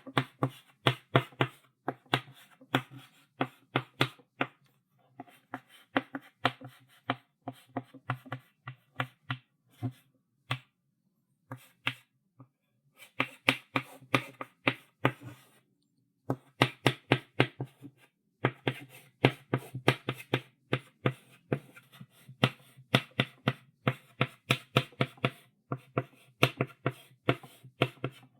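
Chalk writing on a blackboard: a rapid run of sharp taps and short strokes as the chalk meets the board, several a second, in bursts with brief pauses between them.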